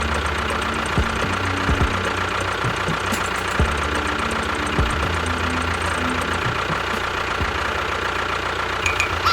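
A small motor running steadily with a constant whine, with a few short knocks along the way.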